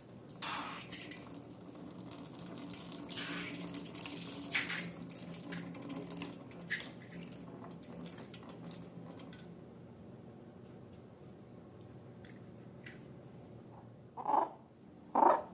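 Wet pouring and splashing of liquid with scattered small clicks, dying down after about ten seconds. Near the end come two short, loud squeals.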